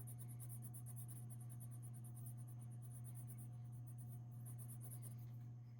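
Coloured pencil scratching on paper in quick back-and-forth shading strokes, fading out shortly before the end. A steady low hum runs underneath.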